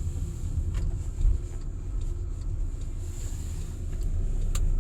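Low steady rumble of a car heard from inside the cabin, with a couple of faint clicks, one about a second in and one near the end.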